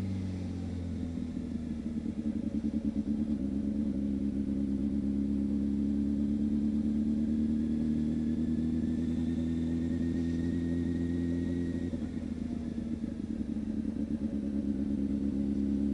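Honda CB600F Hornet's inline-four engine running steadily at low revs, heard from the rider's helmet camera.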